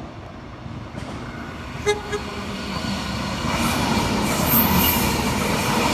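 Two short horn toots about two seconds in, then a passing train's running noise growing louder as it approaches.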